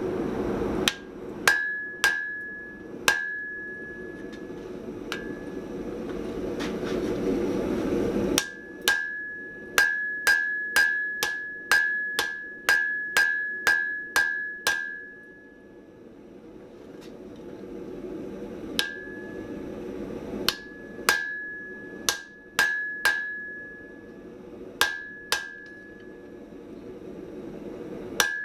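Blacksmith's hand hammer striking hot mild steel on an anvil, each blow followed by a short ring. There are a few blows, then a quick run of about two a second, then slower scattered strikes. A steady rushing noise sits underneath, loudest in the first several seconds.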